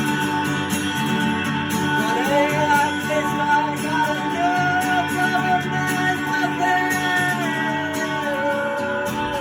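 Live acoustic guitar playing, with a voice singing a slow melody that comes in about two seconds in.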